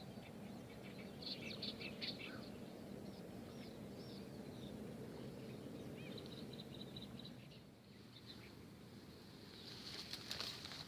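Small birds chirping in short high bursts over a low steady rumble, with a few sharp clicks near the end.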